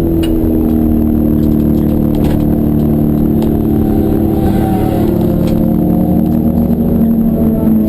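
Racing car engine running steadily at high revs, its pitch shifting slightly about halfway through.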